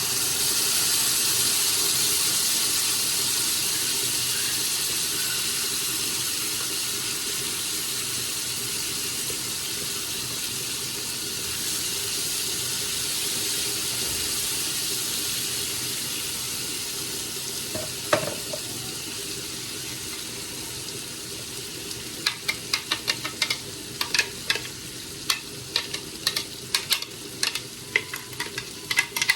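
Chicken and spices frying in a hot pan just after a wet mixture has gone in. The sizzle is loud at first and slowly dies down. From about two-thirds of the way through, a spoon knocks and scrapes against the pan as it is stirred.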